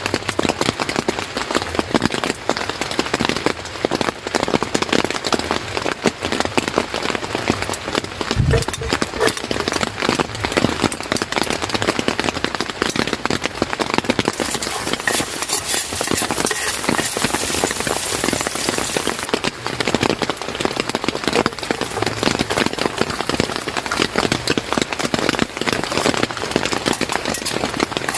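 Steady rain falling as a dense patter of drops. There is a single low thump about eight seconds in, and the hiss grows brighter for a few seconds in the middle.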